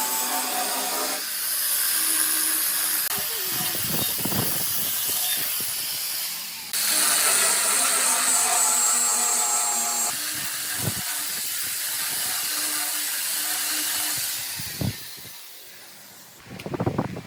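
Woodworking power tools running with a steady high hiss, the sound changing abruptly several times as if between short clips. It fades near the end into a few knocks.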